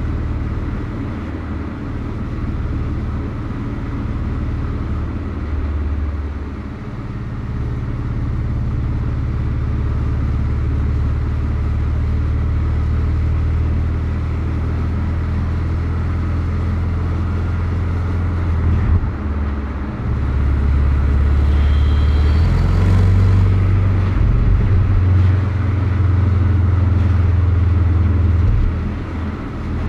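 2023 Porsche 718 Boxster's turbocharged flat-four engine running steadily on the road, with tyre and road noise. The engine note shifts about two-thirds of the way through and grows louder, then eases near the end.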